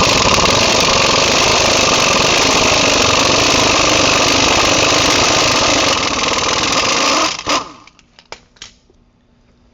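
Power wrench running steadily for about seven and a half seconds, backing out one of the wheel hub assembly's mounting bolts, then stopping abruptly.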